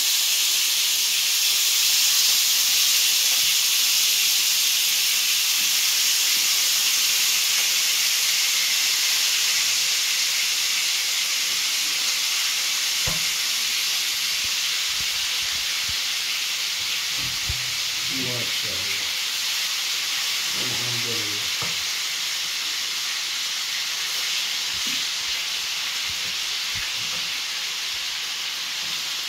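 Marinated chicken pieces frying in hot oil in a frying pan: a steady sizzle that slowly eases, with a few faint clicks of the tongs.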